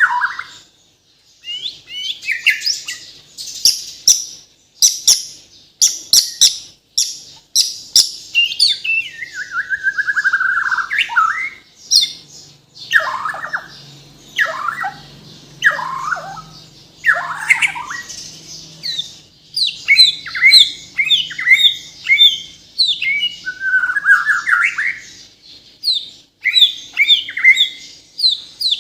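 A Bornean shama (murai batu) singing a long, varied song packed with mimicked phrases. Sharp high clicks and notes give way to clear whistles that slide downward, then to quick chattering runs.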